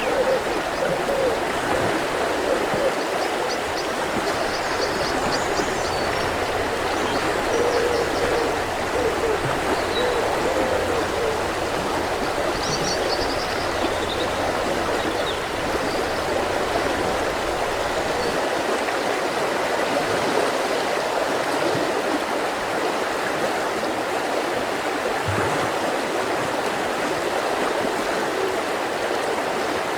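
Mountain river flowing steadily over rocks, with a few faint, brief high bird calls over the water.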